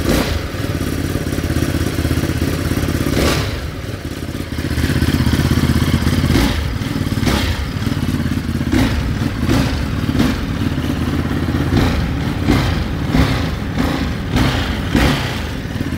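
Ducati Monster 937's 937 cc Testastretta V-twin running at idle, loud, swelling briefly about five seconds in, with several short knocks over it.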